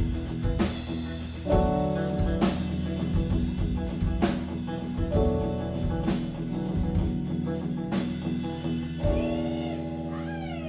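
Live rock band playing without vocals: electric guitar and bass chords over a drum kit, with a cymbal crash about every two seconds. About nine seconds in the drums stop and a chord is left ringing.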